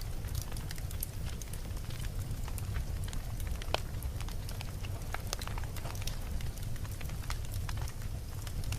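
Wood campfire burning, with a steady low rumble of flames and frequent irregular crackles and pops, one sharper pop near the middle.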